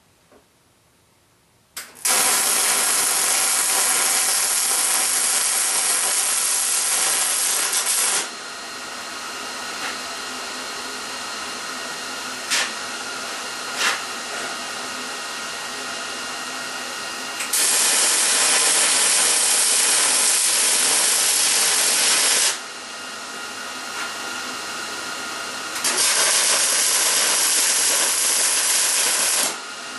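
Gas-shielded electric welder's arc running in three stretches of welding, about six, five and three and a half seconds long. A quieter steady noise runs between them, with a couple of sharp clicks.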